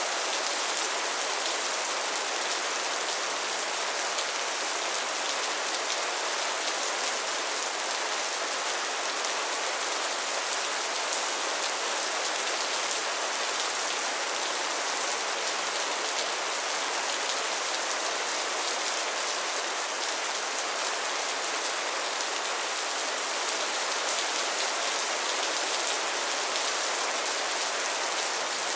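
Steady rain falling on a surface, an even hiss of many drops with no breaks or changes.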